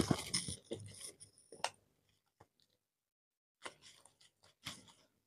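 Close-miked chewing and wet mouth sounds of someone eating chicken curry and rice by hand. They are busiest in the first second or so, then there is a quiet gap broken by a few soft clicks near the end.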